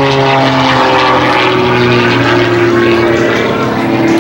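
Propeller airplane engines flying past, a steady loud drone. The engine pitch slides down in the first half, and another engine note climbs slightly in the second half.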